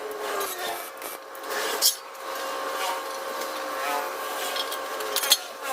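Continuous rasping, scraping noise of hand tool work, with two sharp knocks, about two seconds in and again near the end.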